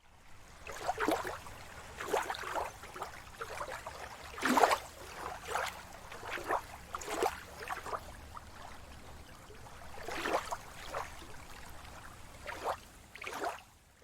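Sea water lapping and splashing in irregular surges, over a faint low rumble.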